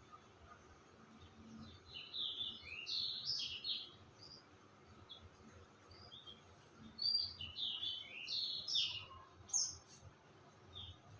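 A songbird singing two quick phrases of high, chirping notes: one about two seconds in and another about seven seconds in.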